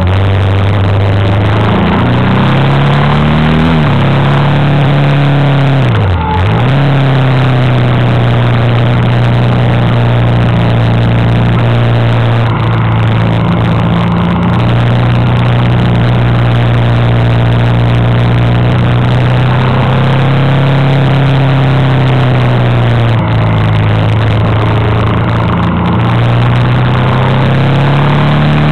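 Honda Africa Twin's V-twin engine running under way on a twisty road, its pitch climbing and dropping with the throttle, with a sharp dip and recovery about six seconds in and another change around twenty-three seconds. A steady rush of wind and road noise lies under it.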